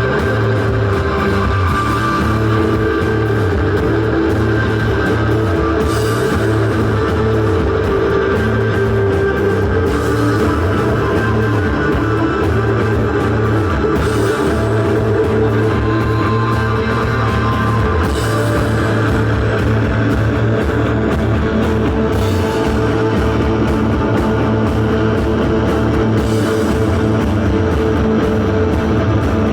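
A band playing live: a loud, dense, steady wall of sound, with a crash marking the beat about every four seconds.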